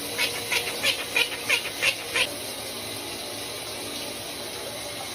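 A parrot gives a quick run of about seven short, high calls over steadily running water. The calls stop after about two seconds, and the water runs on.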